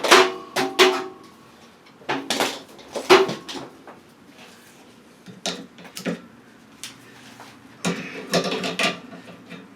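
Irregular metal clanks and knocks, some ringing briefly, as a steel exhaust hanger bracket is handled and set in place against the exhaust. The loudest hits come right at the start and about three seconds in, with a cluster of rattling knocks near the end.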